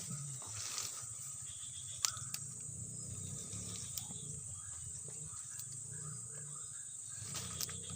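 Insects trilling steadily and high-pitched, with a few sharp clicks.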